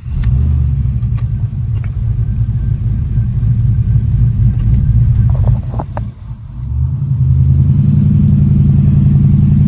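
LS V8 in an Oldsmobile Cutlass coming to life abruptly and running at idle with a deep, steady rumble. The sound dips briefly about six seconds in, then settles into a steadier, fuller idle.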